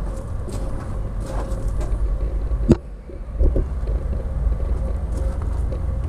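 Steady low outdoor rumble, with one sharp thump a little under three seconds in.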